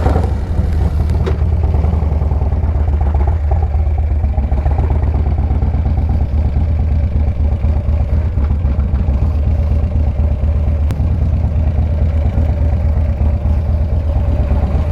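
Harley-Davidson V-twin motorcycle engine running steadily, a deep rumble with a fast, even pulse.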